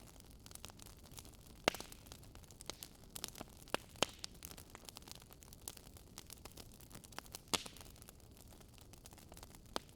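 Wood fire crackling: irregular sharp pops and snaps over a steady low hiss, with louder pops about 2, 4 and 7.5 seconds in.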